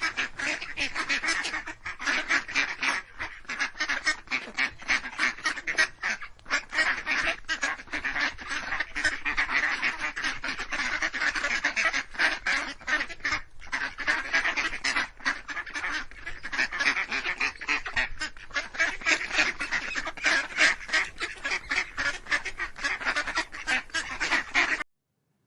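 A flock of waterfowl calling: many rapid, overlapping short calls in a continuous din that cuts off suddenly near the end.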